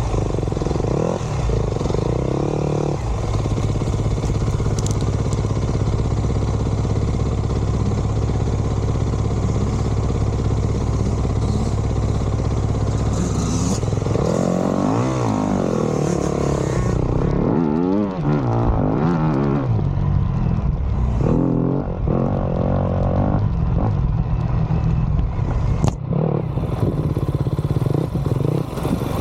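Dirt bike engine running while riding. It holds a steady pitch for the first half, then revs up and drops back several times in quick succession, with further throttle changes near the end.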